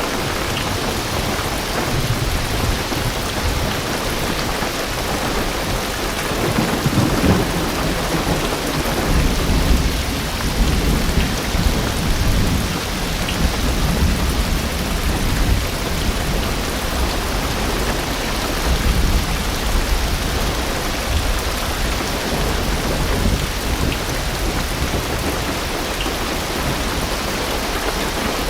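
Heavy rain drumming on a car's roof and windows, heard from inside the car. A long, low rumble of thunder builds about six seconds in and rolls on for some fifteen seconds.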